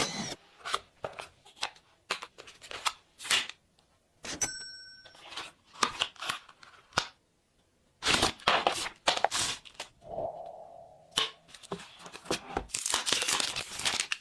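Smartphone retail packaging being opened and handled: a run of clicks, taps and tearing, crinkling rustles from cardboard and wrapping, busiest in two stretches in the second half. A brief beep sounds about four and a half seconds in.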